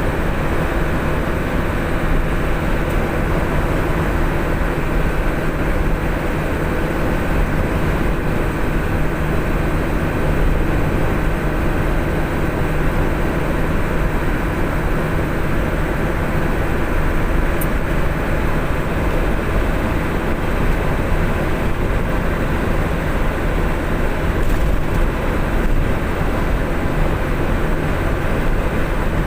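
Truck engine running steadily: a constant low drone with an engine hum and no changes in speed or load.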